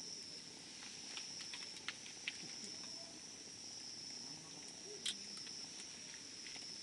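Wood fire crackling with a few sharp pops, the loudest about two seconds in and again near five seconds, over a steady high insect trill.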